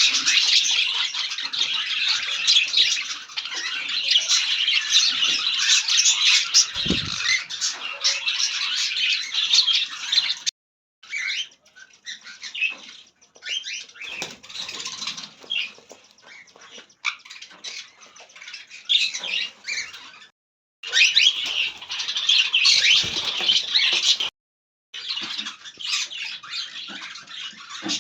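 A flock of small pet parrots chattering, chirping and squawking all at once in a dense, busy din. It breaks off abruptly to silence several times.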